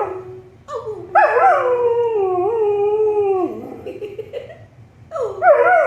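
Pet dog howling: a short call, then one long wavering howl that drops in pitch as it ends, and another howl starting near the end.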